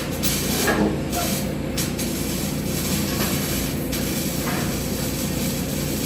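TIG welding arc on carbon steel pipe: a steady hiss and hum from the arc and welding machine, with a few brief crackles at irregular moments.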